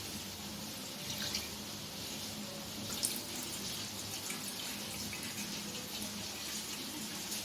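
Milk being poured into a pan, a steady liquid sound with a few faint clinks.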